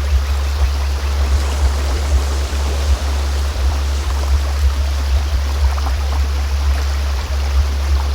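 A steady deep drone tone, played as a healing frequency, under the even rush of a flowing stream.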